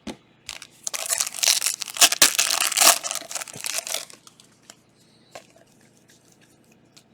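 Trading card pack wrapper being torn open and crinkled, a dense crackling rustle for about three seconds, followed by a few light clicks as cards are handled.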